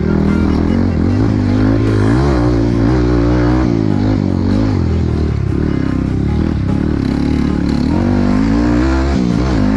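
Dirt bike engine running and revving up and down, its pitch rising and falling again and again.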